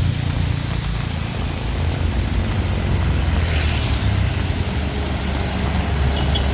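Heavy rain falling, with a steady low rumble underneath and a few faint ticks near the end.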